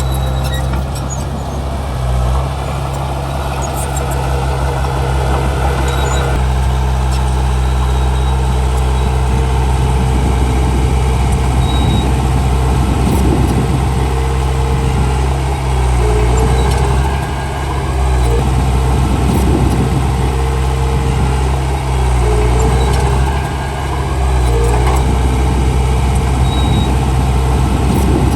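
Komatsu D31P bulldozer's diesel engine running steadily while working, with clattering through the middle and a few short dips in engine load.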